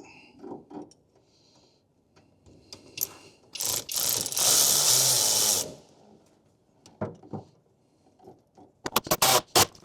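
A power tool runs for about two seconds as it tightens a bolt on the steering shaft's rag joint. A few light clicks come early, and a quick run of sharp clicks comes near the end.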